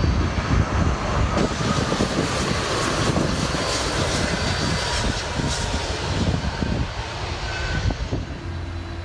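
Jet airliner's engines heard as it passes, a steady noise with a faint whine sliding slowly down in pitch, easing off near the end.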